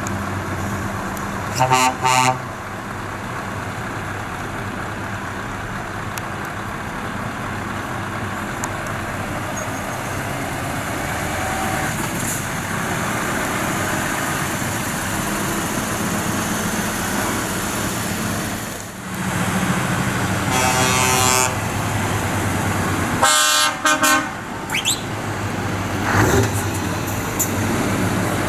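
Lorry engines running steadily with horn blasts over them: a short toot about two seconds in, then two longer ones in the last third.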